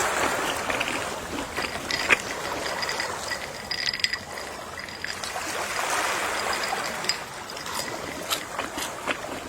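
Gentle sea waves washing in, swelling at the start and again past the middle, with scattered small clicks and ticks.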